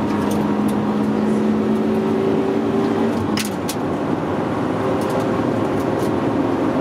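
Honda Civic Type R engine heard from inside the cabin, pulling hard with a slowly rising note. About three and a half seconds in the note breaks off with a click and a brief dip in loudness, as in a gear change, then picks up and climbs again.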